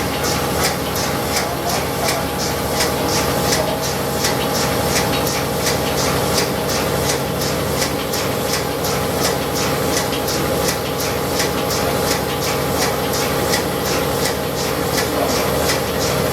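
Woltman machine running steadily: an even, rhythmic ticking of about three to four beats a second over a constant mechanical hum.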